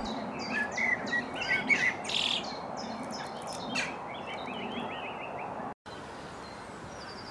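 Songbirds singing: a rapid run of short chirps and a trill over the first four seconds, thinning out afterwards, with a brief cut in the sound just before the end.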